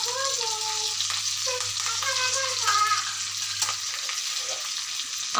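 Egg pepper fry sizzling in oil in a kadai as coriander is stirred in just after the gas is turned off, a steady hiss, with faint wavering tones in the background.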